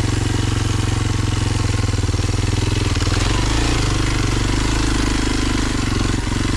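Kawasaki KLX230 dual-sport motorcycle's single-cylinder four-stroke engine running under way on a trail, its note shifting about halfway through, with a short knock near the end.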